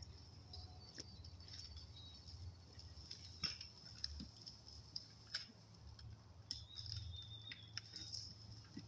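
Faint outdoor ambience: scattered high bird chirps and twitters, with one held high note lasting about a second from around six and a half seconds in, over a low steady rumble.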